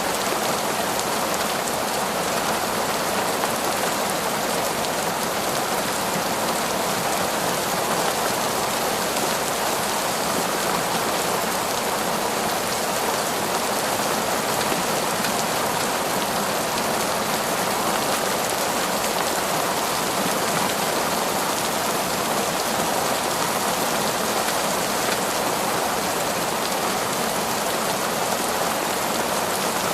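Heavy, torrential rain pouring steadily on forest trees, a dense, even hiss of drops with no let-up.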